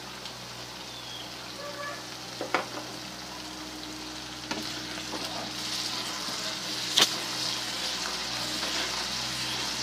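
Aloe vera frying in onion and spice masala in a pan, sizzling steadily and getting louder after about four and a half seconds. A few sharp knocks of the stirring spoon against the pan, the loudest about seven seconds in.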